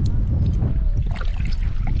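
Wind buffeting the microphone, a steady low rumble, with scattered short ticks over it.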